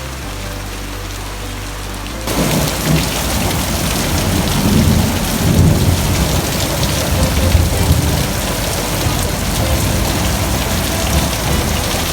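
Heavy rain pouring down steadily. About two seconds in, the sound turns suddenly louder and a long, low rumble of thunder rolls through, swelling and fading over the following seconds.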